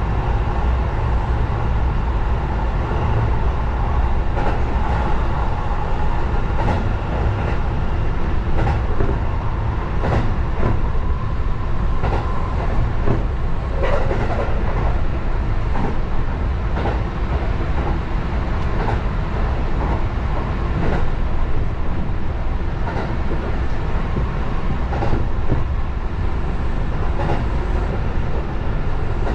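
Sanyo Electric Railway 6000-series electric train running along the track, heard from inside the driver's cab: a steady low rumble with wheel clicks over rail joints every second or two.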